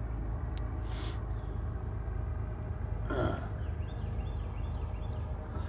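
Small single-engine propeller plane droning steadily overhead. A brief throat sound comes about three seconds in, followed by a few faint high chirps.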